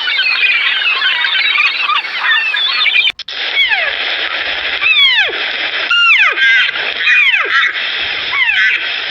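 A dense chorus of many overlapping chirping calls cuts off sharply about three seconds in. It is followed by a run of loud animal calls, each sliding steeply down in pitch from high to low, coming irregularly over a steady hiss.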